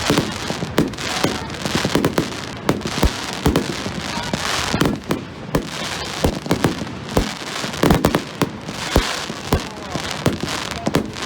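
A fireworks display: a dense run of sharp bangs and crackling reports, several a second, over a steady hiss of bursting shells.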